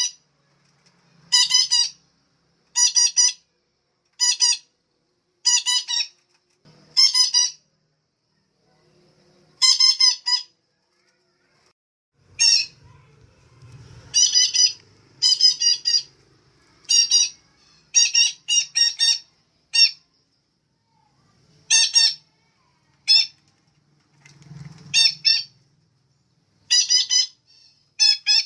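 Female betet (red-breasted parakeet) calling over and over: short, high-pitched calls about once a second, sometimes two or three in quick succession.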